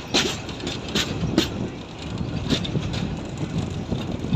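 Local passenger train running on the rails as it comes into a station, with a steady rumble and irregular sharp clicks of the wheels over rail joints.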